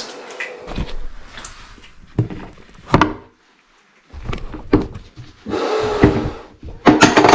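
Irregular knocks, thunks and scraping as tools and parts are handled at close range in a small room, with a brief break to silence a little over three seconds in.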